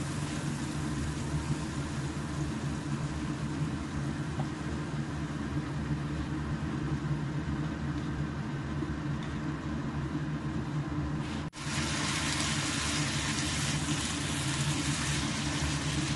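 Ground pork, onion and diced tomato sizzling in a nonstick frying pan, over a steady low hum. The sound drops out for an instant about eleven and a half seconds in and comes back with a brighter sizzle.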